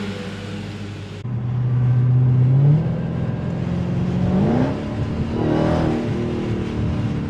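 Dodge V8 muscle car accelerating hard, its engine note climbing in pitch, dropping at an upshift about three seconds in and climbing again, with another shift about five seconds in. A steady engine drone before a sudden cut about a second in.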